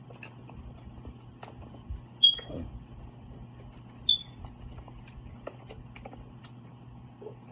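Eating noises while working through a seafood boil: scattered small wet clicks and smacks. Two sharp, high-pitched clicks stand out about two seconds apart, over a low steady hum.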